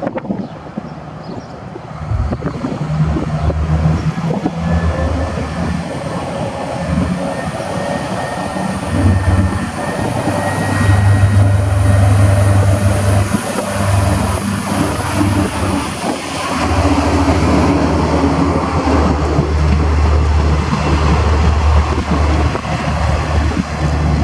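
Diesel passenger train running close by at a station, its engine a low, uneven drone that gets louder about two seconds in, with a faint high whine above it.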